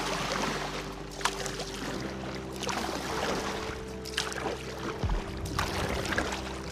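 Background music with held chords under water splashing and sloshing around a kayak, in irregular bursts.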